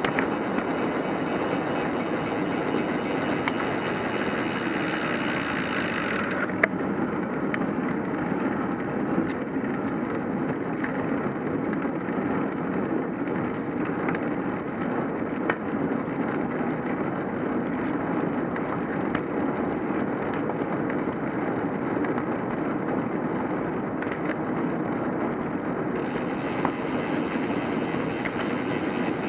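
Steady rushing ride noise of a cyclocross bicycle under way: wind on the microphone and tyres rolling on the road, with a few faint clicks and knocks. A higher hiss rides on top for the first several seconds and again near the end.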